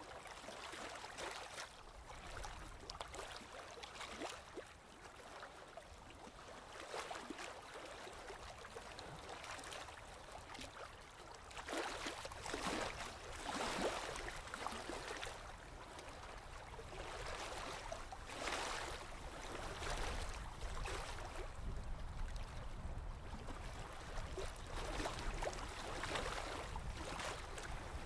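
Sea water lapping and washing in waves that swell and fade every few seconds, the loudest wash about twelve to fourteen seconds in, over a low rumble.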